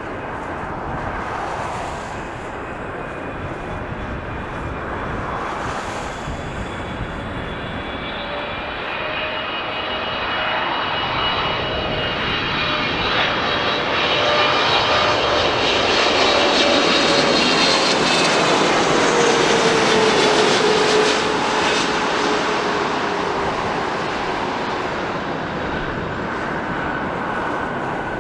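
Jet airliner passing by: the engine whine and rush build slowly, peak about two-thirds of the way through, then fade, with the whine sliding down in pitch as it goes past.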